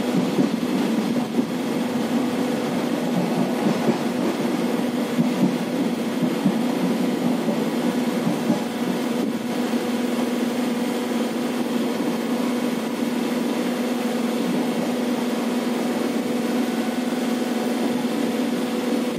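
Interior running noise of an express train's passenger coach in motion: the rumble of wheels on the rails under a steady hum. The rumbling texture eases about halfway through, leaving a smoother, even hum.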